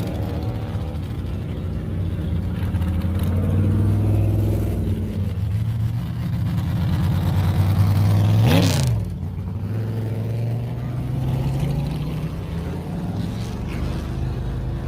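Car engines rumbling as cars pull out of a lot and drive off, their pitch slowly rising and falling. One car passes close by about eight and a half seconds in: its engine is loudest just before passing, then the sound drops away.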